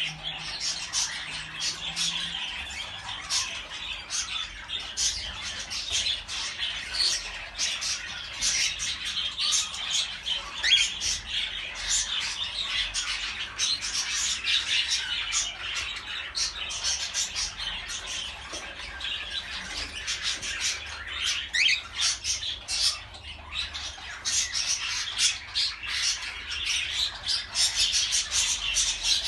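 Several cockatiels chirping and squawking together in a dense, unbroken chatter of short high calls, with an occasional rising whistle.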